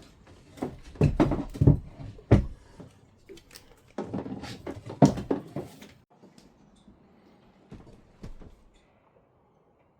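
Irregular knocks and thumps of things being moved and handled in a small room, coming thick for about six seconds, then two more near the end.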